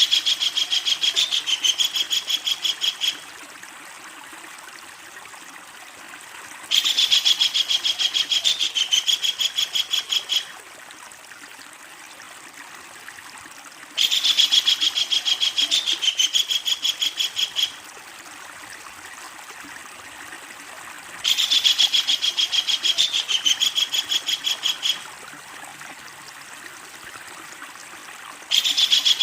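Kingfisher giving long, loud rattling calls: a rapid run of sharp, high notes lasting about three and a half seconds, repeated four times about every seven seconds, with a fifth starting near the end, over a steady background hiss.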